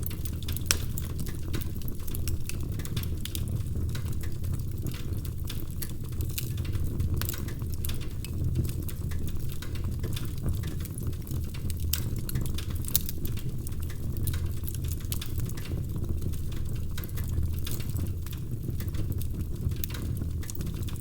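Wood fire crackling, with many small sharp pops and snaps scattered over a steady low rumble.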